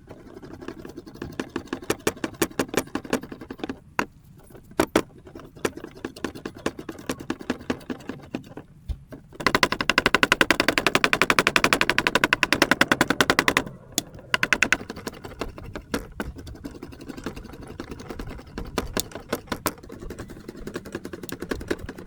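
Knife chopping on a cutting board: irregular strokes at first, then about four seconds of very fast, even chopping in the middle, then slower strokes again.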